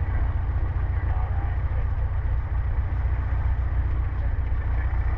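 Cessna 150's Continental O-200 four-cylinder engine idling steadily at about 800 rpm, heard from inside the cockpit as a deep, even drone.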